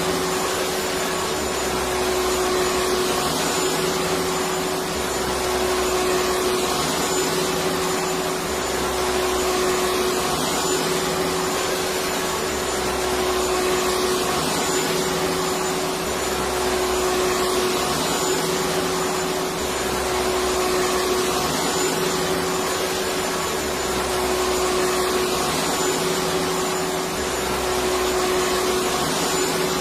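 Electric vacuum cleaner running continuously: a steady rushing whir with a constant motor hum, and a faint low pulsing that repeats about every two seconds.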